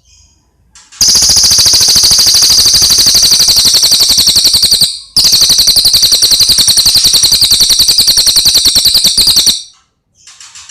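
Cililin song: after a few faint chirps, a loud, very fast rattling trill held for about four seconds, a brief break, then a second trill of about the same length.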